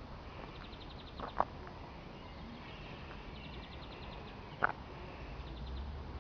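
Wild songbirds calling: quick, high, rattling trills of rapid ticks recur every second or two. Two brief, louder sounds stand out, about a second and a half in and again past four and a half seconds.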